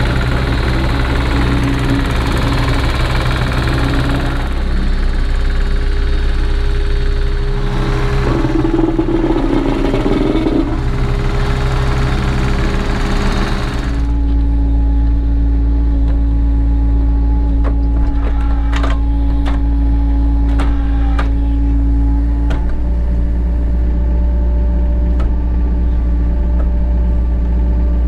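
Cat 307 excavator's diesel engine running with its hydraulics working. About halfway through the sound changes abruptly to a deeper, steadier engine note, with a few sharp clicks a little later.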